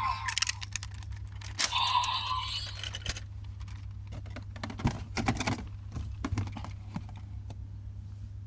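Plastic toy parts being handled: a run of small clicks, rattles and knocks, densest about five seconds in, with a short electronic tone about two seconds in. A steady low electrical hum runs underneath.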